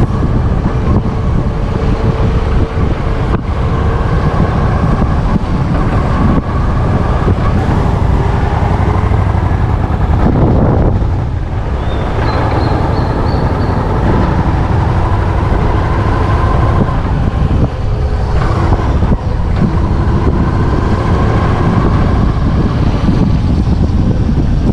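Motorcycle engine running on the move, its note shifting with the throttle. It drops about ten seconds in, then picks up again.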